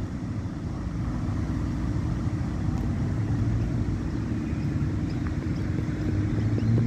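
The Doodlebug railmotor's engine running steadily as it motors away up the line, a low drone that grows slightly louder near the end.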